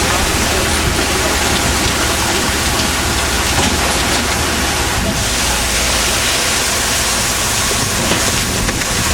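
Steady loud rushing of water with a low engine hum underneath, aboard a fishing boat; the hiss grows brighter about five seconds in.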